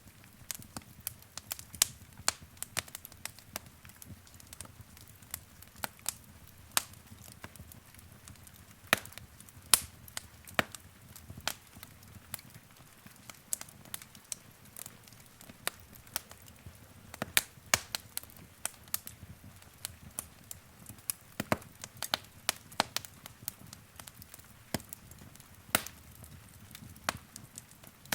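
Wood fire crackling: a steady stream of irregular sharp pops and snaps over a low hiss.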